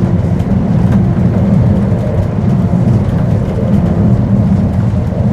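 Vintage tram running, heard from on board: a steady low rumble of wheels on rail with a constant motor hum.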